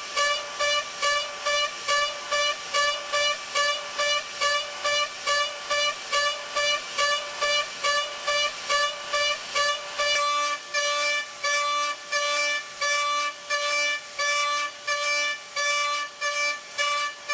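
High-frequency spindle of a DATRON M8Cube CNC mill machining aluminium: a steady high tone that swells and drops in even pulses about twice a second as the cutter works the housing. About ten seconds in the rhythm slows to about one and a half pulses a second.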